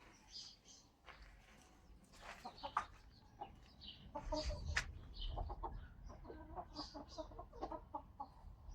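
Chickens clucking, a run of short repeated clucks that builds up about four seconds in, with higher short chirps in between.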